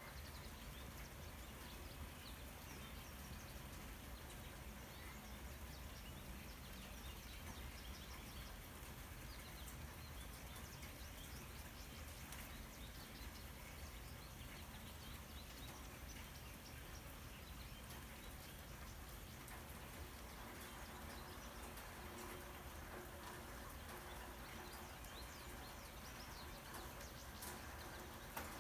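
Faint outdoor ambience: a steady hiss with many faint, short chirps.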